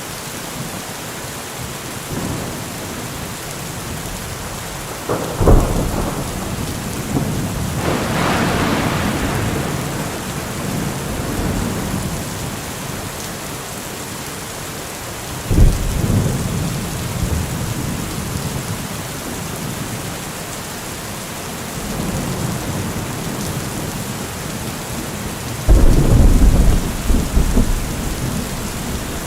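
Steady heavy rain. Sudden low rumbling crashes break in about 5, 16 and 26 seconds in, the last the loudest. A brief swell of heavier rain comes about 8 seconds in.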